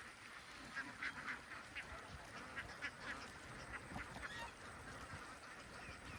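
A flock of domestic ducks calling, many short quacks overlapping, some louder ones about a second in and around three seconds.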